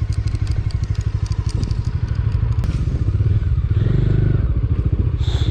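Bajaj Dominar 400's single-cylinder engine running with a steady, even pulsing beat.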